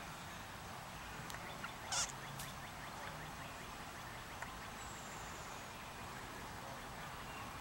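Outdoor ambience: a steady hiss. About two seconds in comes a short sharp bird call, the loudest sound, among faint quick chirps. Near the middle there is a faint high falling whistle.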